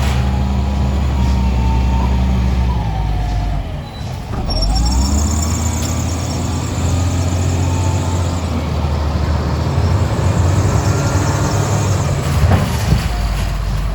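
Heavy engine running under load, its pitch rising and falling, with a whining tone that glides up and down over it. It dips briefly about four seconds in, then picks up again.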